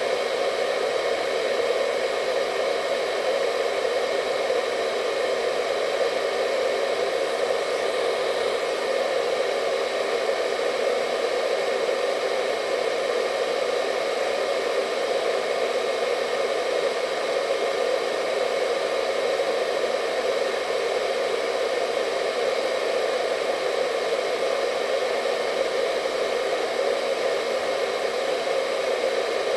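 Hair dryer running steadily: an even rush of air strongest in the low-middle range, with faint steady whining tones from the fan motor above it.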